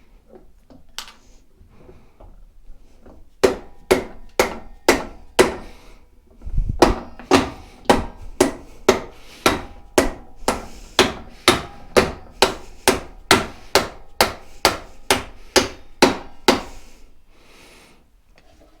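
A steady series of about two dozen hammer blows, roughly two a second, starting a few seconds in and stopping near the end, with a few quieter clinks of handling before them.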